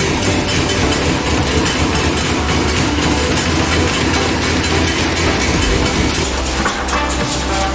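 Screw-forming machine running, a steady, dense mechanical clatter.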